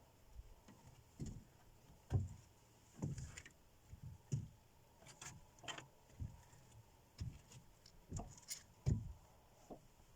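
A series of irregular dull knocks and thuds, roughly one a second, some with a light click on top.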